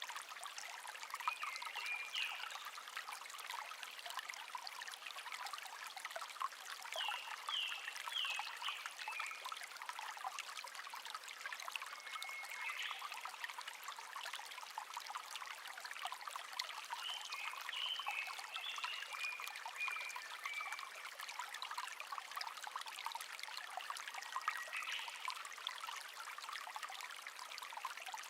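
Small stream babbling and trickling steadily, with a songbird singing short chirping phrases every few seconds over it.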